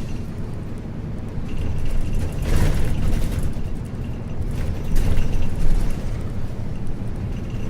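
Cabin running sound of a 1994 Isuzu U-LV224N route bus driving, its 6QB2 diesel engine running steadily under way, with two brief louder rushes of noise a little under three and about five seconds in.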